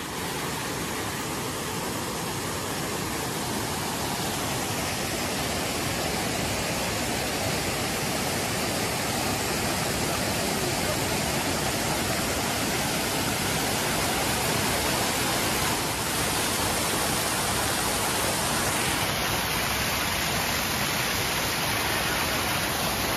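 Waterfall running: a steady, even rush of falling water that holds constant throughout.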